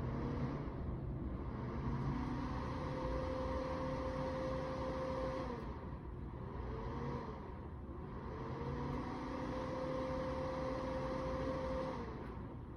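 Electric mini fireplace heater's fan running with a steady whir. A faint tone rises, holds for a few seconds and falls away, twice.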